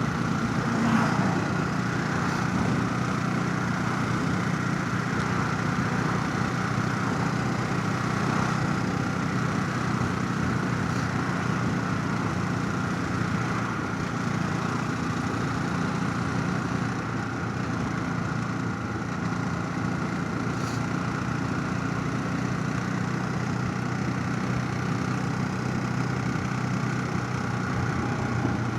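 Motorcycle engine running steadily under way, an even hum that holds much the same pitch throughout, heard from a helmet chin-mounted camera.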